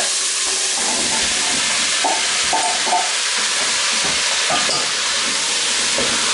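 Onion, potatoes and diced butternut squash sizzling in the hot bowl of a Moulinex Cookeo multicooker set to brown. The squash is tipped in and a spatula stirs and scrapes through the vegetables over a steady frying hiss.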